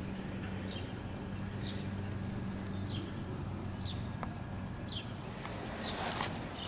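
A small bird chirping over and over, short high notes that slide down in pitch, about two a second, over a steady low hum.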